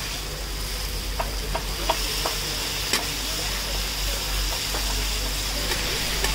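Eggplant and minced meat sizzling in a large paella pan while a metal spatula stirs and scrapes through it, making a steady hiss broken by several sharp clicks of the spatula against the pan.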